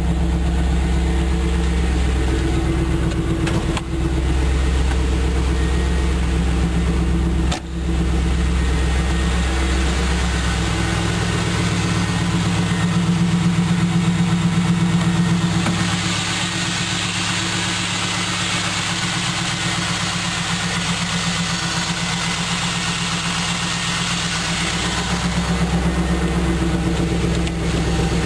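1998 Pontiac Trans Am's LS1 5.7-litre V8 idling steadily, with a hissier sound joining for several seconds past the middle. The fuel pump buzz has kind of gone away now that the clogged fuel filter has been replaced.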